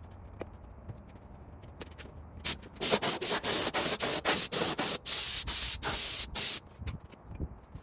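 Pressurised spray hissing in a run of short bursts, about a dozen quick ones followed by a few longer ones, then stopping.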